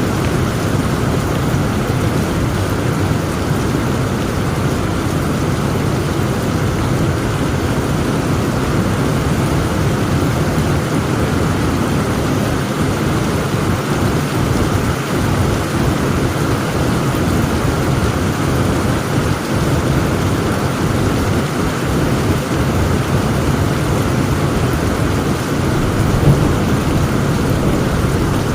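Heavy rain pouring steadily over a continuous low rumble of thunder, with one brief louder burst near the end.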